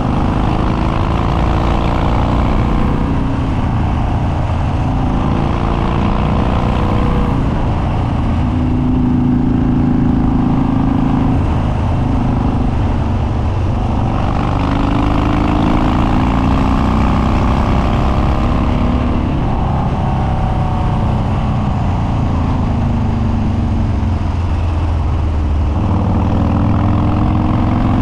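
Harley-Davidson Dyna Street Bob's Twin Cam V-twin running through an unbaffled upswept dual exhaust, with Stage 2 cams and an open air filter, under way. The revs climb and drop several times as the rider accelerates and eases off.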